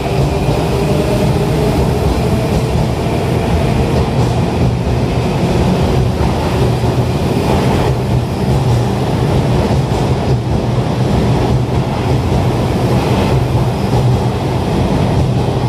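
Sotetsu electric commuter train running along an underground station platform: loud, steady rumble of wheels on rail and traction motors, echoing in the station.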